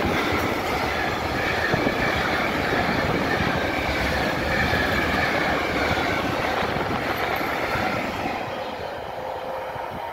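Freight train of tank wagons rolling past close by, wheels rumbling on the rails with a faint high whine from the wheels. The noise fades away near the end as the train recedes.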